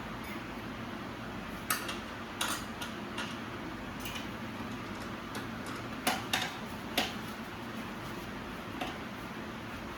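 Light metallic clicks and clinks of tools and bicycle parts during assembly, coming singly at irregular moments, a few close together about six to seven seconds in, over a steady background hum.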